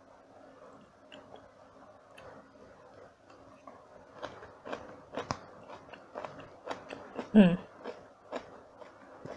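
Chewing a mouthful of stir-fried noodles, with wet mouth clicks that grow busier about four seconds in. One brief louder sliding sound comes about seven seconds in.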